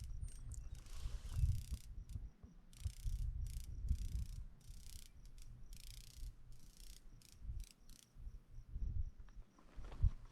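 Irregular rustling and crunching, like steps or movement on dry ground, over a low wind rumble on the microphone, with a faint, evenly repeating high chirp.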